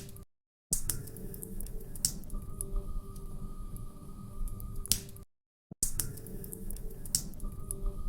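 Wood fire crackling in a fireplace: irregular sharp pops and snaps over a low rumble. The sound cuts out to silence twice for about half a second.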